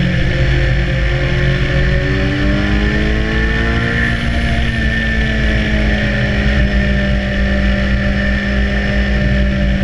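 BMW S1000R's inline-four engine pulling steadily while riding, its pitch rising gently a few seconds in and then holding, over a dense low rush of wind noise.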